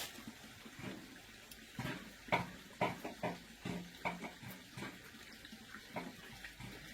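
Water running and splashing, as at a tap or sink, with scattered light knocks and clatters.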